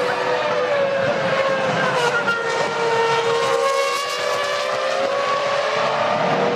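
Formula One car's 3.0-litre V10 engine running at high revs, its pitch dipping slightly a few seconds in and then rising again.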